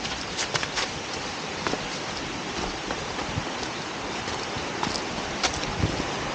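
Waterfall water rushing steadily over rocks, with a few short clicks and splashes scattered through it.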